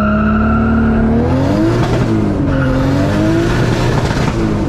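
Turbocharged 1JZ inline-six in a Nissan 240SX pulling hard through the gears: the revs climb, drop at an upshift about two seconds in, then climb again before another shift near the end.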